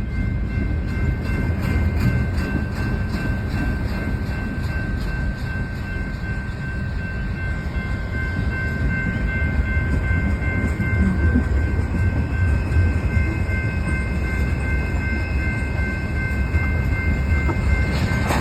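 BNSF freight train rolling past with a steady low rumble of its cars. A thin, high, steady squeal of steel wheels on the rail is held over it. There is quick clicking of wheels over rail joints in the first few seconds.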